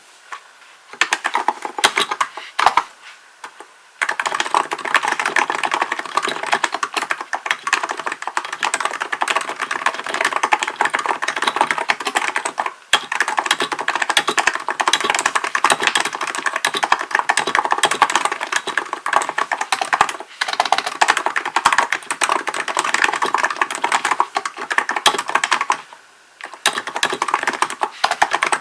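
Fast, continuous typing on a Hansung GK898B electro-capacitive (Topre-style) keyboard: a dense run of keystroke clacks broken by a few brief pauses. It starts with a few scattered keystrokes, then settles into steady typing after about four seconds.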